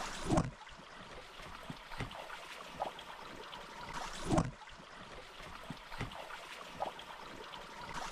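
Stream water running and trickling, with three short low swishes about four seconds apart.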